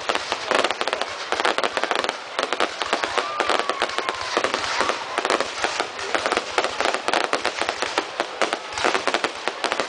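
Fireworks display: a dense, continuous crackle of many small bangs, with a brief faint whistling tone about three seconds in.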